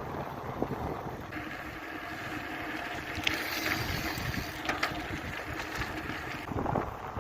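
Wind buffeting the microphone of a moving bicycle rider: a steady low rushing rumble, with a brighter hiss joining from about a second in until near the end and a few light clicks.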